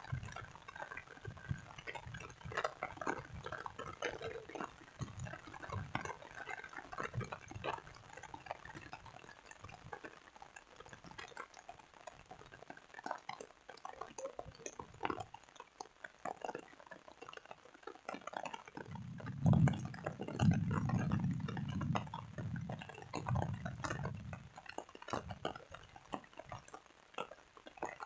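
Rain falling, with many irregular drops ticking and pattering. A louder low sound comes in about two-thirds of the way through and lasts several seconds.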